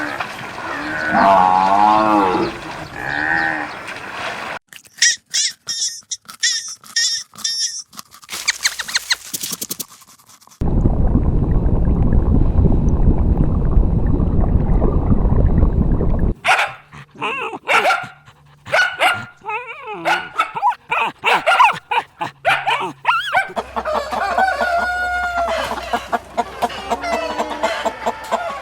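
A series of different animal calls and noises, cut one after another: wavering pitched calls at first, then rapid clicking and rasping, about six seconds of steady rough low noise in the middle, and more calls toward the end.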